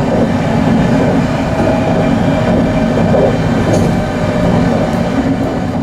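Train running: a steady loud rumble with a low hum.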